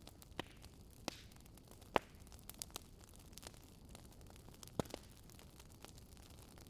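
Wood campfire crackling: sharp pops at irregular intervals, the loudest about two seconds in, a quick cluster soon after and another strong pop near five seconds, over a faint steady rush of a riverside fire bed and flowing water.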